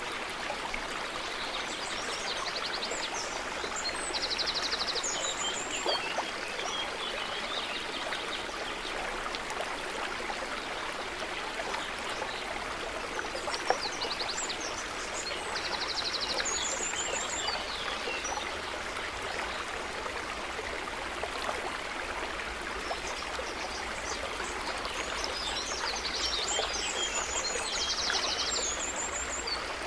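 A stream running steadily, with a small bird singing three bouts of quick, high chirps and trills about ten seconds apart. A single brief click sounds a little before the middle.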